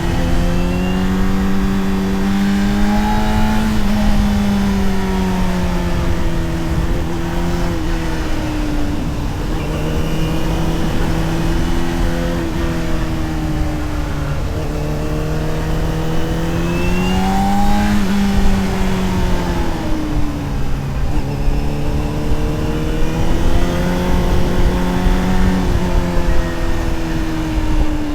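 Honda CBR600RR's inline-four engine and exhaust under way, its revs climbing and falling several times with throttle changes and shifts, with a sudden drop in pitch a little past halfway. Wind rushes steadily underneath.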